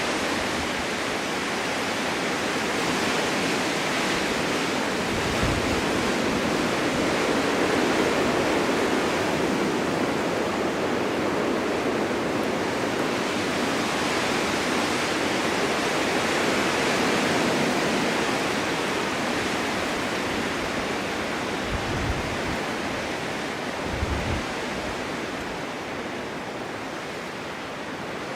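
Strong winter wind blowing steadily, a continuous rushing that swells and eases slowly, with a few brief low gusts buffeting the microphone.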